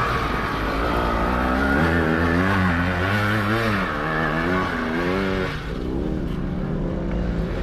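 Motocross sidecar outfits' engines racing on the track, revving up and down in quick waves. The engine noise thins out about two-thirds of the way through.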